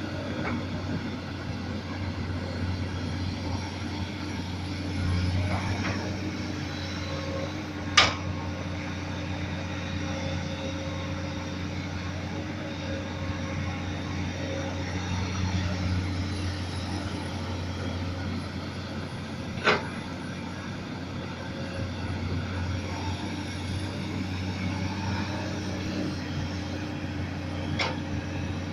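Komatsu PC200 excavator's diesel engine running steadily while it digs, broken by three sharp knocks, the loudest about a third of the way in.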